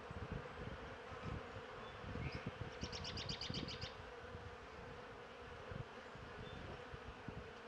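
Italian honeybees buzzing steadily in a low, even hum around an open Langstroth hive during an inspection. A brief, rapid high trill about three seconds in.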